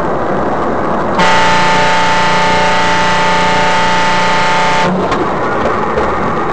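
Car horn held steadily for about four seconds, starting a second in and cutting off near the end, over continuous road and traffic noise.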